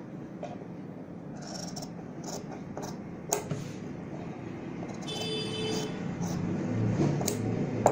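Scissors cutting through cloth stitched to buckram, with the rustle of the fabric and a few sharp clicks of the blades.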